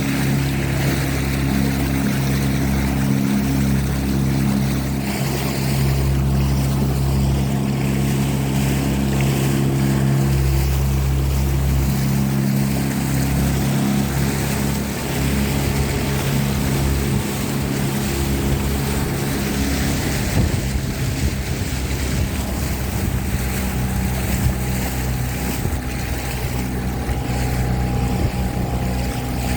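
Motorboat engine running at a steady drone, with water and wind noise on the microphone; the engine tone drops back somewhat past the middle.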